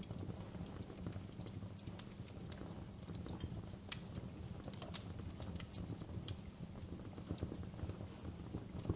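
Wood fire crackling in a fireplace: irregular sharp pops and snaps over a steady low rumble, with louder pops about four seconds in and again a little after six seconds.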